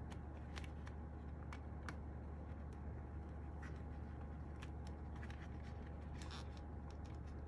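Scattered faint clicks and light scraping from hands working on the parts of an opened mechanical keyboard, over a steady low hum.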